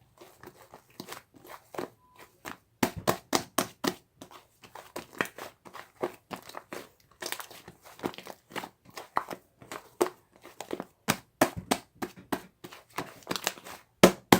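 Hands squeezing and stretching fluffy white slime: an irregular run of sticky pops and crackles, louder from about three seconds in.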